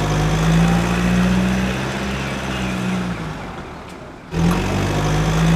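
Motorcycle engine sound effect running at a steady pitch. It fades down over a couple of seconds, then cuts back in abruptly about four seconds in.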